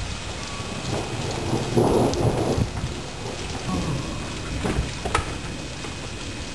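Steady rain with a rumble of thunder swelling and fading about two seconds in, followed by a few sharp taps of drops near the end.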